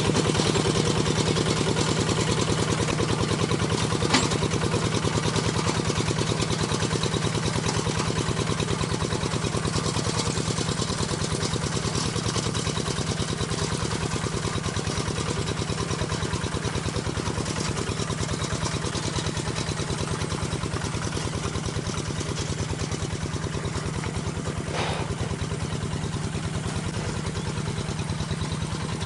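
Single-cylinder diesel engine of a two-wheel rice-field hand tractor running steadily with a fast, even chug, slowly getting slightly quieter. A sharp click sounds about four seconds in.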